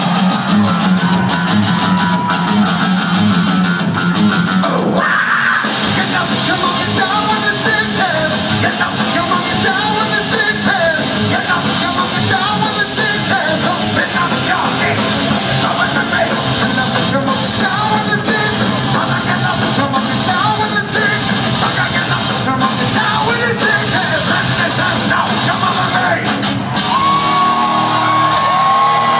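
A heavy metal band playing live through a concert PA, with distorted guitars, drums and yelled and sung vocals. The low end drops out briefly about five seconds in, then the full band comes back in.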